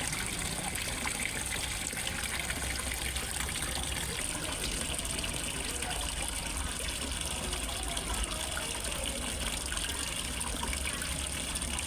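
Water splashing and trickling steadily into a fish pond, a continuous even rush with no breaks.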